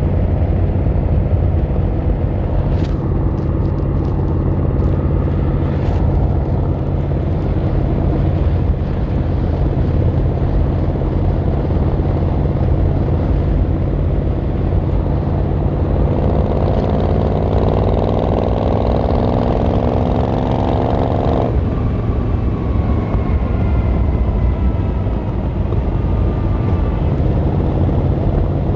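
Yamaha XVZ1300 Royal Star's V4 engine running at a low, steady speed, then pulling away about halfway through: its note climbs for about five seconds, then drops sharply. A few light clicks sound a few seconds in.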